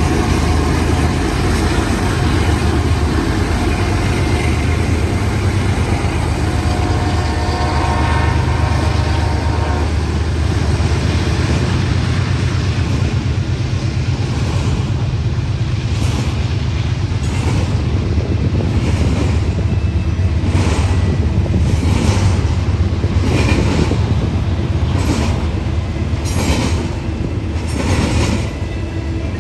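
BNSF intermodal double-stack freight train rolling past, a steady heavy rumble of locomotives and cars. A held chord of a train horn sounds for about three seconds some seven seconds in. From about halfway on, wheels clack over rail joints about once a second.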